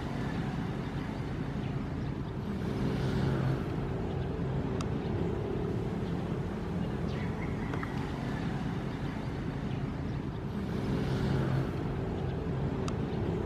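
Ocean waves: a steady low rumble of surf, with a wash of hissing water swelling twice, about eight seconds apart, as waves break and run in.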